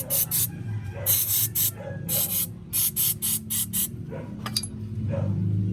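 A spray nozzle giving about a dozen short hissing bursts in quick succession, over a steady low hum.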